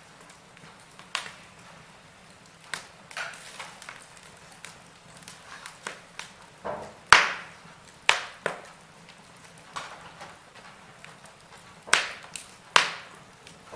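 Wood fire in a fireplace crackling, with sharp irregular pops; the loudest comes about seven seconds in, with two more strong ones near the end.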